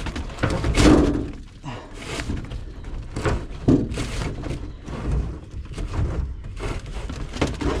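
Electrical cable being hauled through a hole in the RV frame, with irregular thunks and knocks as it drags and rubs against the frame.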